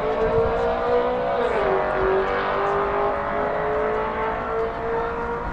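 Car engine pulling under acceleration. Its pitch drops quickly about a second and a half in, as at an upshift, then climbs slowly again.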